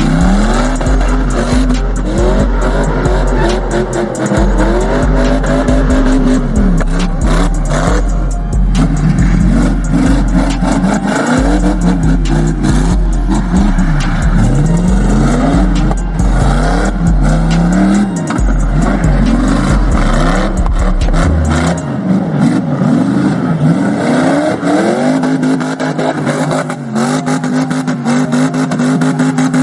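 Car engines revving hard, their pitch climbing and falling again and again, over loud, deep, thumping bass music that cuts out about two-thirds of the way through.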